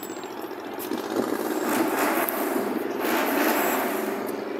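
American car engines running and revving, the rumble swelling louder about a second in and easing off near the end.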